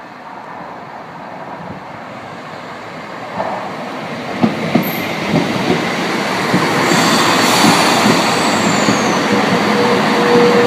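Class 170 Turbostar diesel multiple unit running close past, growing louder as it nears. Its wheels click over rail joints from about a third of the way in, and a thin high squeal falls in pitch near the end.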